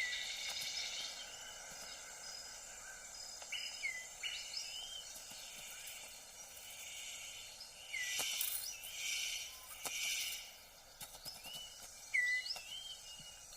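Tropical forest ambience: steady high insect tones run throughout, with short, upward-curving bird chirps repeating every second or two. A few louder rushes of hiss come about eight to ten seconds in.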